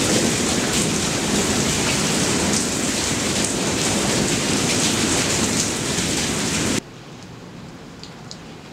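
Heavy rain of a thunderstorm, a loud steady downpour, that cuts off suddenly about seven seconds in, leaving a much quieter background with a few faint ticks.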